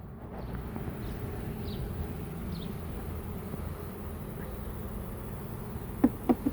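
Honeybee swarm buzzing steadily as the bees fan at the hive box, the sign that they are taking to it as their new home. Three sharp knocks come near the end.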